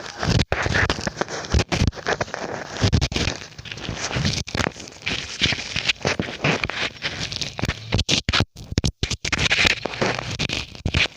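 Close-up handling noise on a BOYA microphone as a balloon cover is fitted and taped over it: irregular crackling, rubbing and scraping of rubber and tape right against the mic, with a few brief cut-outs late on.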